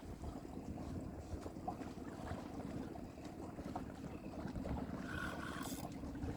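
Wind buffeting the microphone and water moving against a small fishing boat at sea, a steady rough rumble, with a brief hiss about five seconds in.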